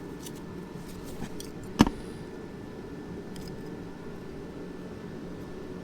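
Light metallic ticks and one sharp click about two seconds in as snap ring pliers work a new wrist-pin snap ring into a piston, over a steady low shop hum.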